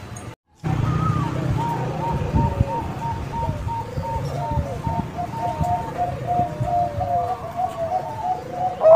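Zebra doves (Bangkok-line perkutut) cooing: a quick run of short staccato notes with lower, drawn-out falling coos among them, over a low steady hum. The sound cuts out for a moment just after the start.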